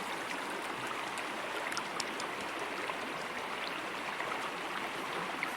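Small river running steadily, an even rush of flowing water.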